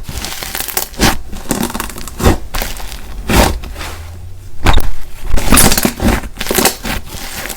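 Slime being squished and pressed by hand, with irregular crunching and crackling.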